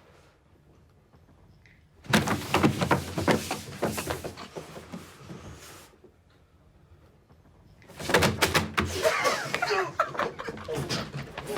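A clatter of knocks and thumps in a small room in two bursts, about two seconds in and again near the end, with hushed voices in the second burst.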